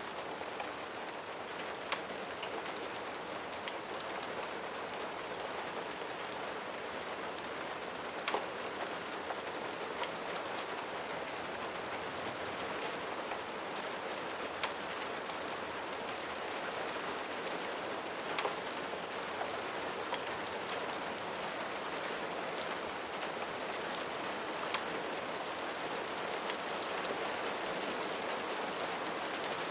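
Steady rain falling on a surface, an even hiss, with a few sharp clicks now and then.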